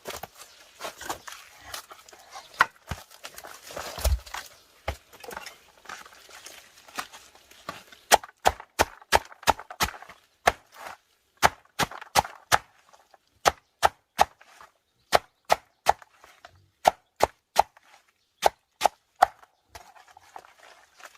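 Wood being worked by hand: irregular scraping and light tapping, then from about eight seconds in a steady run of sharp chopping strikes, two to three a second.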